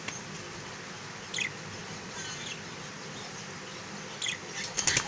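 Caged budgerigars and a cockatiel squabbling: a few short, high chirps, then a quick flurry of sharp flapping and scuffling sounds near the end as the birds fight.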